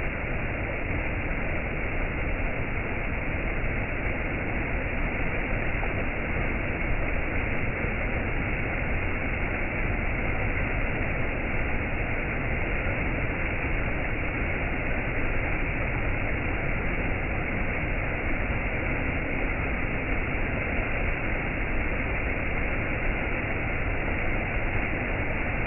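Steady, unbroken rushing of a waterfall, an even wash of falling-water noise that does not change.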